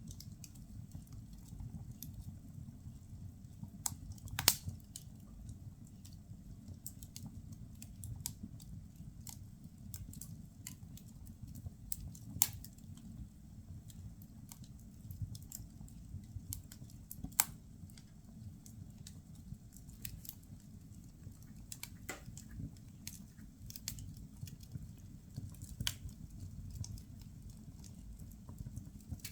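Firewood burning in a fireplace: irregular crackles and pops over a low steady rumble of the fire, with three sharper pops standing out, about four, twelve and seventeen seconds in.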